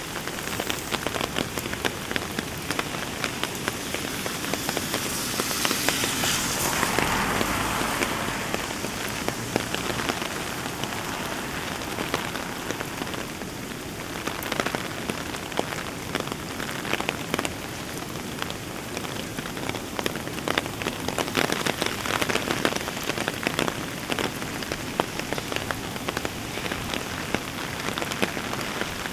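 Heavy rain falling steadily, dense with the ticks of individual drops, swelling louder for a couple of seconds about six seconds in.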